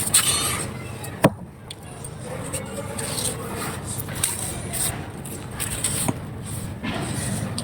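Dry clay crumbling and crushing under light pressure: a continuous crisp crackle and scrape, with a sharp snap about a second in and another about six seconds in.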